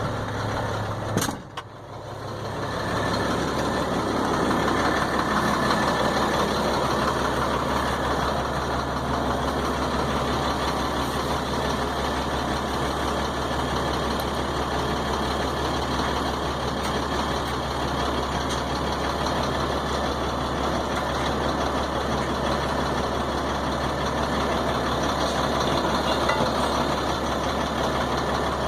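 Freightliner truck's diesel engine running steadily, a low even hum, after a brief click and dip in level about a second and a half in.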